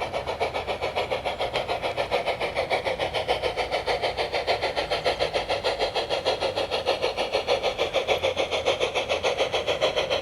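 Gauge 1 Märklin Gt 2x4/4 Mallet tank locomotive model's onboard steam sound, playing quick, even exhaust chuffs through its speaker as the locomotive runs.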